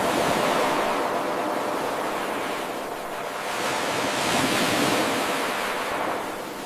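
Ocean waves washing on a shore: a wave surges and hisses out, then a second surge builds about four seconds in and recedes.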